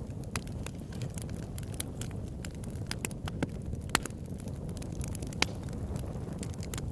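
Campfire burning with a steady low rumble and frequent sharp crackles and pops, a few louder pops standing out about four and five and a half seconds in.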